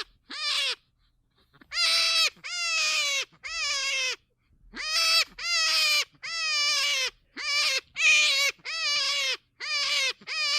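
An animal calling over and over: about a dozen short, high-pitched calls, each falling slightly in pitch, with a short pause about a second in.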